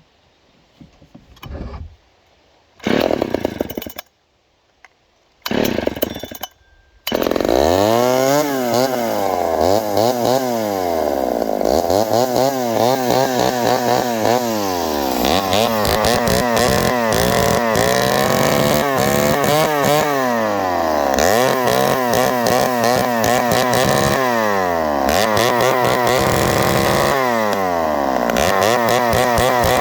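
Poulan 306A two-stroke chainsaw being started: a few short bursts as it fires briefly, then about seven seconds in it catches and keeps running. It is revved up and down over and over, its pitch rising and falling every couple of seconds.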